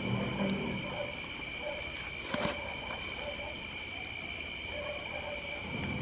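Night insect chorus: a steady, high, unbroken trill. A low hooting call sounds briefly at the start and again at the end, and there is a single sharp click about two and a half seconds in.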